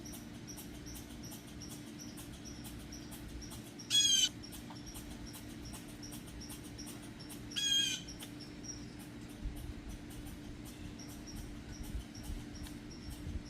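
A bird calls twice, two short calls about four seconds apart, over a faint steady hum and a faint regular high ticking.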